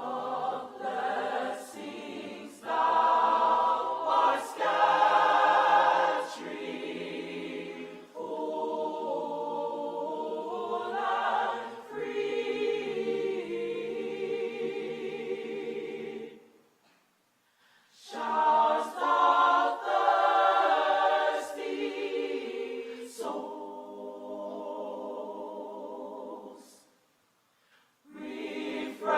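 Church choir singing in long phrases, stopping briefly twice between phrases.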